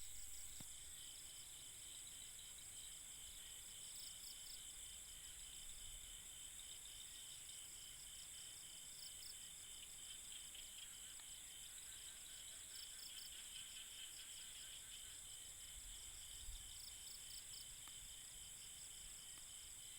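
Faint night chorus of insects, steady high trilling at several pitches with pulsing in some of the voices.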